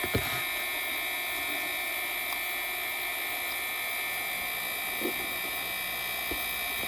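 Heat gun blowing steadily with a whirring hum, softening the adhesive under a phone's back glass. A few faint clicks come from the glass being worked.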